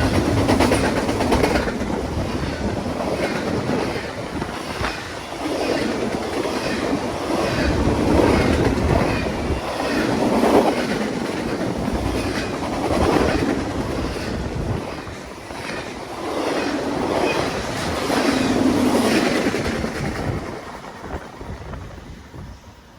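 Railroad cars rolling past, their wheels clicking over the rail joints in a steady repeating rhythm that swells and eases, then fades away over the last few seconds.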